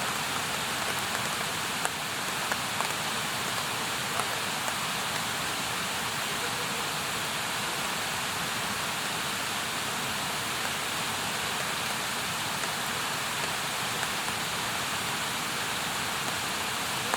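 Wood campfire burning with a steady hissing crackle. A few sharp pops come in the first several seconds.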